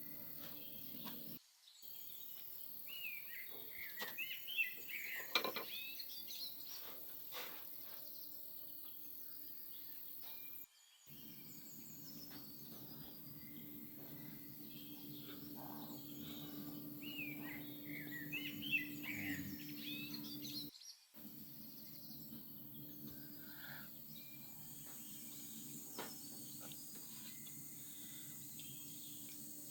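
Birds chirping and twittering over steady outdoor background noise, with busier bursts of calls a few seconds in and again around two-thirds through. The sound drops out briefly three times.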